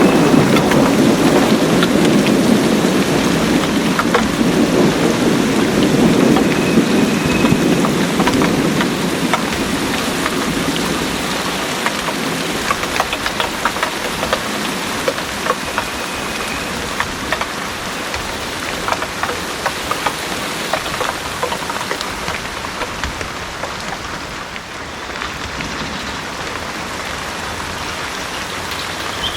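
Heavy rain pouring steadily, with individual drops ticking close by. A low roll of thunder rumbles at the start and dies away over the first ten seconds.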